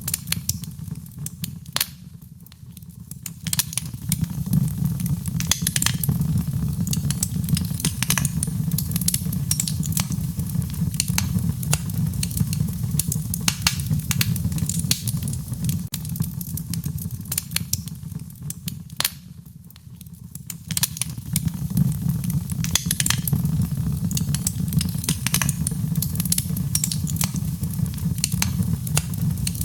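Wood fire burning, with frequent sharp crackles and pops over a steady low rumble of flames. The sound fades down briefly twice and then comes back up.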